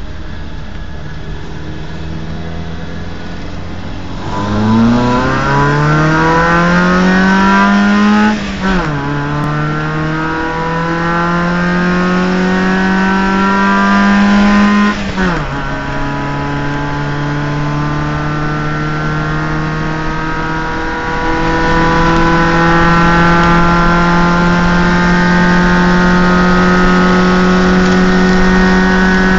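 Fiat 127 engine running steadily, then accelerating through the gears: the pitch climbs, falls sharply at two gear changes, and then settles into a steady cruise.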